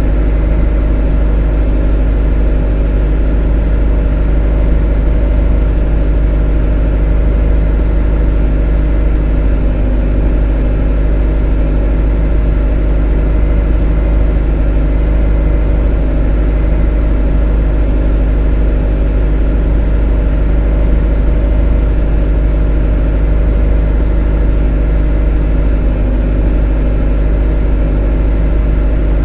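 A motor running steadily with a deep, even hum and a stack of steady tones above it, unchanging throughout.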